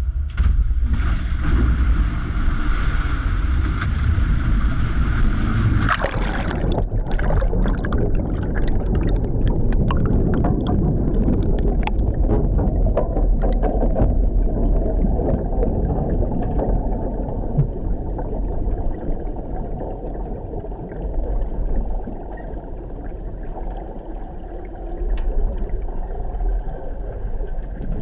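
Water rushing and splashing over a heavy low rumble, changing about six seconds in to churning, bubbling water with many small crackles: the pool water around the helicopter egress trainer cabin as it goes under.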